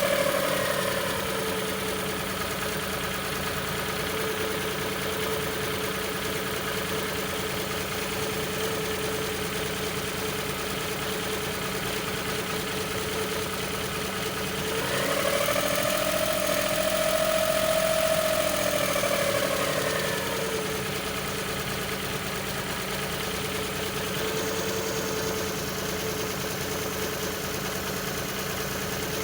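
Suzuki F6A three-cylinder engine with an up-and-down idle. The revs drop back just after the start and hold steady, then about halfway through they climb and hang for several seconds before falling back to idle.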